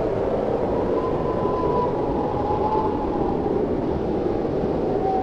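Blizzard wind howling steadily with a deep rushing rumble. A thin whistling tone near 1 kHz rises about a second in, then wavers and dips slightly lower.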